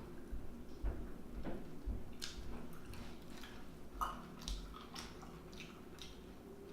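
A person chewing and smacking wet mouthfuls of seafood in sauce, with many short, irregular clicks and smacks.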